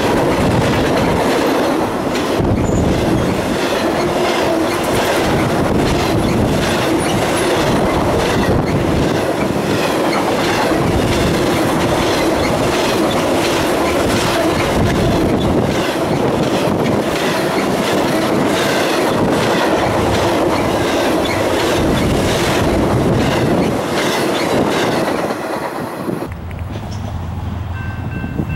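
Intermodal freight train rolling past close by: the steady rolling roar of steel wheels on rail, with regular clicks as the car wheels cross rail joints. Near the end it gives way to a quieter low rumble.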